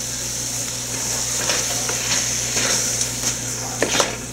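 Onions and mushrooms sizzling in a pot with canned mushroom soup just added. In the second half a spoon starts stirring, with short scrapes and knocks against the pot, the loudest near the end.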